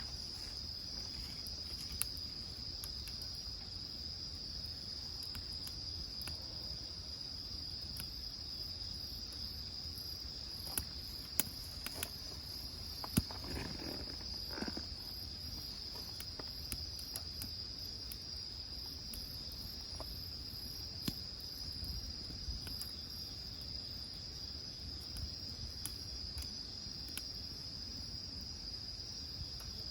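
Insects trilling steadily in one unbroken high band, with a few sharp pops from firewood burning in a wood grill; the loudest pop comes about 13 seconds in.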